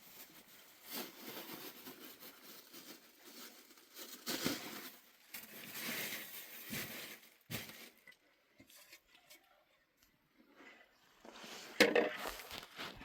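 Rustling and crinkling handling noises with scattered knocks and clinks, dying down for a few seconds, then a sharper, louder clatter near the end.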